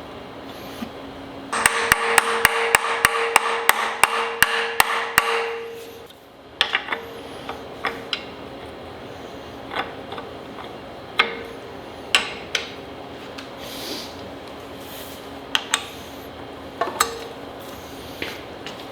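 Hand tools working on engine parts. A few seconds of noisy running carries a rapid, evenly spaced series of sharp metallic strikes, about three a second, then scattered single clinks and knocks of tools on metal follow.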